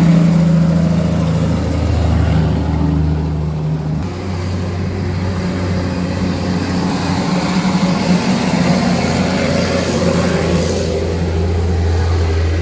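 A motor vehicle running steadily: a deep engine hum over road noise, with the hum's pitch shifting about four seconds in.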